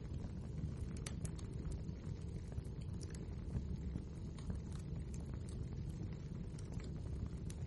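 Wood fire burning: a steady low rumble of the flames with frequent small, irregular crackles and pops.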